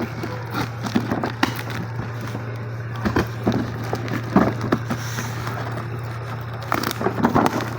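Plastic cosmetic rack parts and packaging being handled: irregular clicks, taps and knocks, some in quick clusters, over a steady low hum.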